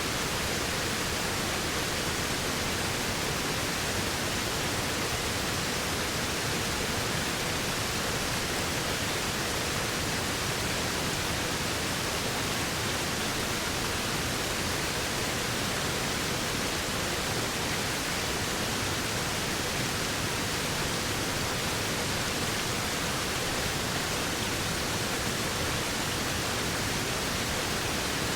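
Waterfall rushing: a steady, even hiss of falling water with no changes.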